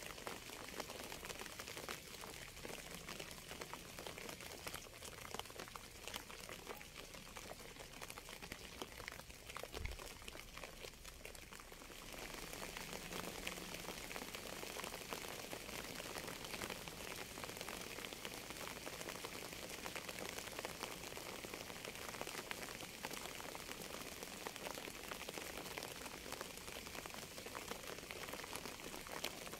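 Steady rain, a dense patter of fine drops, that grows a little louder and fuller about twelve seconds in. A single brief low thump sounds shortly before that.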